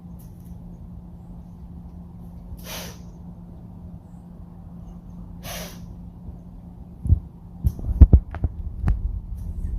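Two hissing blows from a white-tailed doe, forceful snorts through the nose about three seconds apart: the alarm call a deer gives when it senses danger. From about seven seconds in comes a run of sharp thumps and knocks, louder than the blows.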